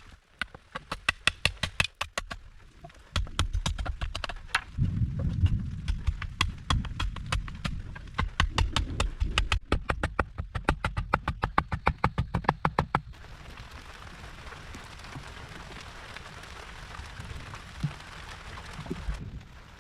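Rapid, evenly spaced knocking strikes, several a second and some heavy and thudding, for about thirteen seconds; then they stop suddenly and steady rain is left.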